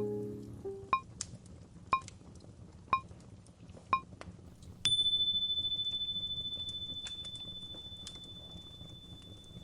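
Countdown timer: four short beeps a second apart, then a longer, higher beep that rings on and fades slowly. Faint crackling of a fireplace sits underneath.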